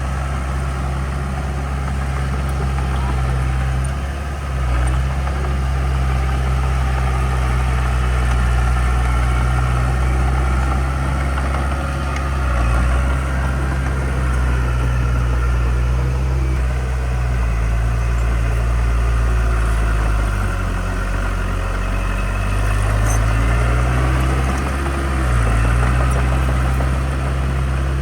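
Heavy diesel engine of earth-moving equipment running steadily, its pitch dipping and coming back up a few times in the second half.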